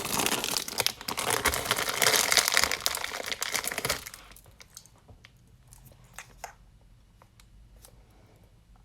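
Loud crinkling and rustling handled close to the microphone for about four seconds, then stopping, followed by a few faint clicks.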